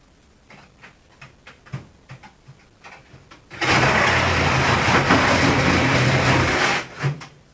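A few light knocks and clicks, then a reciprocating saw runs for about three seconds, cutting into the refrigerator's body, and stops suddenly.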